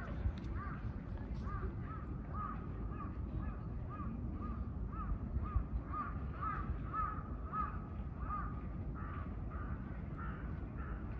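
A bird calling a long run of short, evenly repeated notes, about two or three a second, fading after about eight seconds, over a steady low background rumble.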